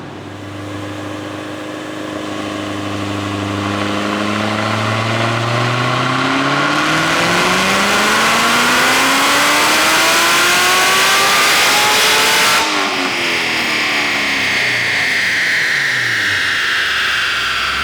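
Stage 4 Corvette C7 Z06's supercharged V8 making a wide-open-throttle pull on a chassis dyno: the engine note climbs steadily in pitch for about ten seconds, with a loud rushing whine building. Then the throttle snaps shut and the revs fall away as it coasts down.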